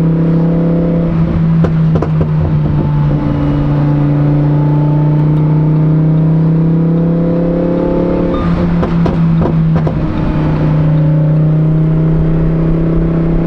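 Supercharged Lamborghini Huracan EVO's V10 with a titanium race exhaust, running at a steady, fairly low engine speed with a deep, even note that shifts slightly in pitch. A few brief sharp sounds cut in about two seconds in and again around nine to ten seconds.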